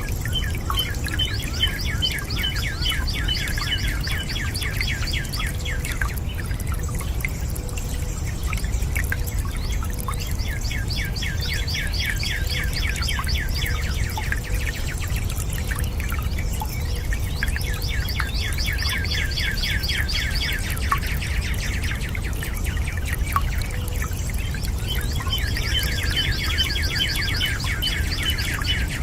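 A bird singing rapid high trills of a few seconds each, four times over, above a steady low rush of running water.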